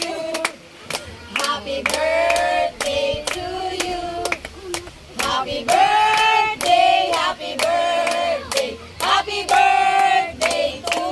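A group of people singing together while clapping along in a steady beat.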